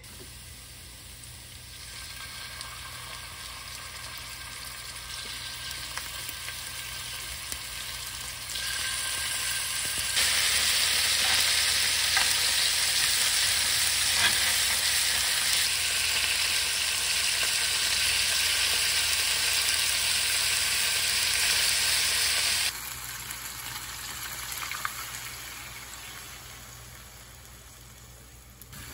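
Hot olive oil sizzling as minced garlic and chili fry in a stainless frying pan, then chicken drumsticks frying. The sizzle builds to a loud, steady hiss about a third of the way in, then drops off suddenly and runs quieter to the end.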